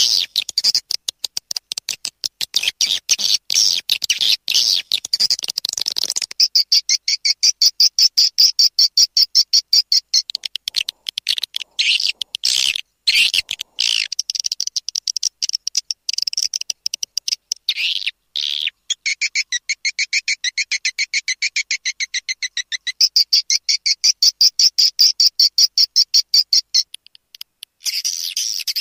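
Swiftlet lure call: long trains of rapid, high-pitched twittering chirps, with a short break near the end. It is the calling sound played to draw swiftlets into a nesting house.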